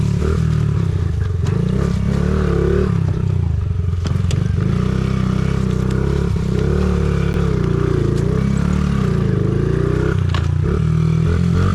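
Honda CRF50's small single-cylinder four-stroke engine being ridden hard, its pitch rising and falling with the throttle, with a couple of sharp knocks and clatters from the bike.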